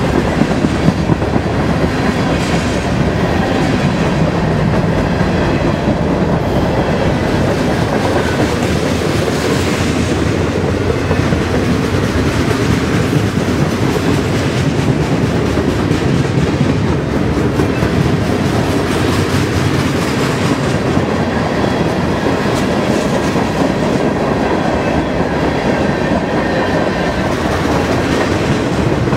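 CSX freight train rolling past: a steady, loud noise of steel wheels running over the rails as the cars go by.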